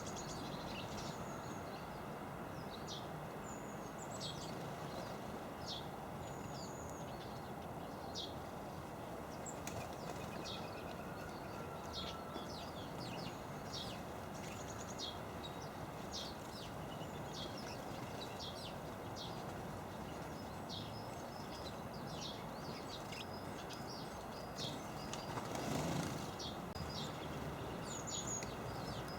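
Small garden birds chirping: many short, high chirps and calls come and go throughout over a steady hum of background noise. Near the end there is a brief louder rustle.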